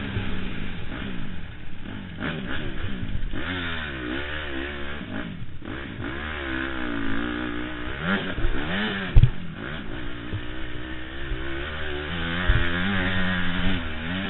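Honda CRF four-stroke motocross bike engine revving up and down over and over as the rider accelerates, shifts and backs off. There is a sharp thump about nine seconds in.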